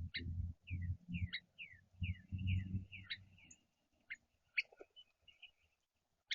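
Small songbirds chirping: a string of short, downward-slurred chirps, two or three a second, with a few sharper clicks later on. Low rumbling thumps run under the first half.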